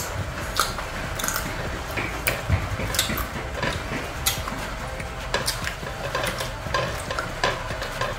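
Close-up eating sounds of sour green mango: crisp crunching and wet mouth clicks as the slices are chewed, with light clinks from fingers dipping slices into a dish of shrimp paste. The clicks come irregularly, several to a second.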